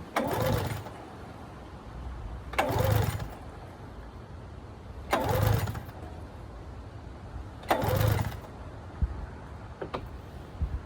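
Recoil starter of a 1996 Arctic Cat ZRT 600 snowmobile pulled four times, about two and a half seconds apart, each pull spinning the three-cylinder two-stroke engine briefly with a rising and falling whir. The spark plugs are out, so it turns over without firing, to draw fuel through the rebuilt fuel pump and lines. A couple of short clicks near the end.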